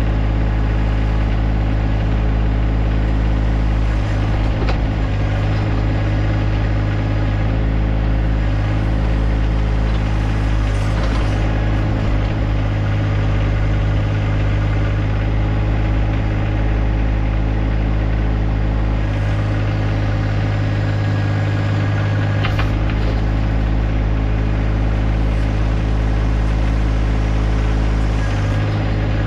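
John Deere 1025R compact tractor's three-cylinder diesel engine running steadily, with a few faint short knocks over it.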